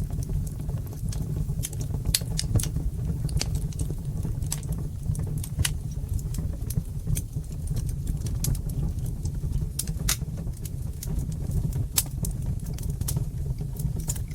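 Fire in a fireplace crackling: frequent sharp, irregular pops and snaps over a steady low rumble of the flames.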